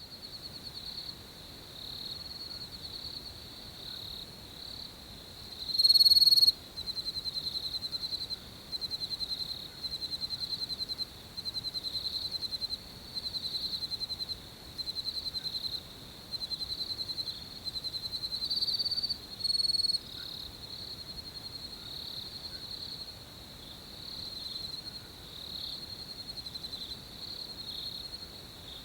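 Crickets chirping: a steady high trill, with louder pulsed chirps in phrases about a second long that repeat every second or two, the loudest about six seconds in.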